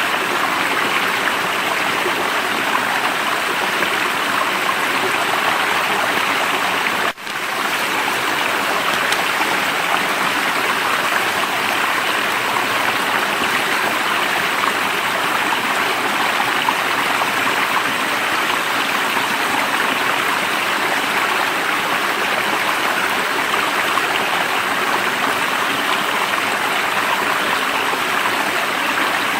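Steady rush of a stream of running water, with a momentary dropout about seven seconds in.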